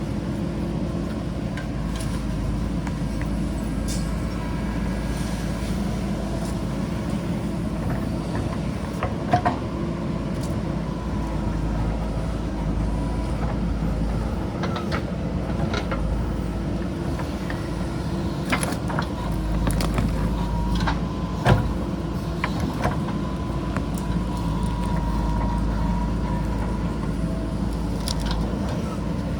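JCB backhoe loader's diesel engine running steadily while it works, with scattered sharp knocks, the loudest about a third and about two-thirds of the way in.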